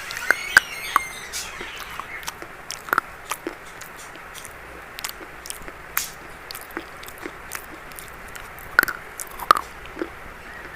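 Biting and chewing something brittle: irregular sharp crunches, several loud ones in the first second, one about three seconds in, and two near the end.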